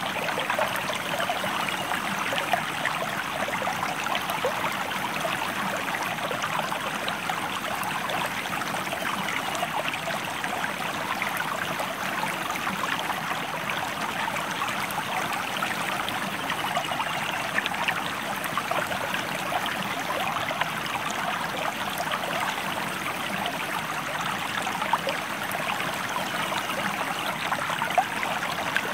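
Stream water running steadily, an even, unbroken splashing that holds the same level throughout.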